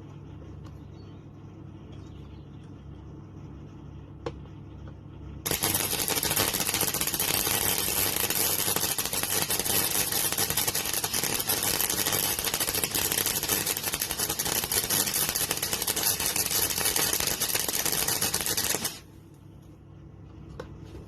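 MIG welder arc crackling steadily as a bead is laid on car body sheet metal, starting about five seconds in and stopping abruptly about thirteen seconds later. A low steady hum runs before and after the weld.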